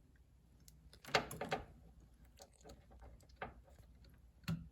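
Light plastic clicks and rustles as a water tube is pushed into a refrigerator water inlet valve and its locking clip fitted, a few brief clicks with the clearest about a second in.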